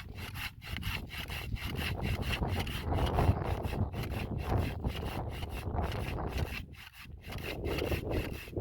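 Rapid rhythmic scraping or rubbing strokes, about five a second, like sawing or scrubbing by hand.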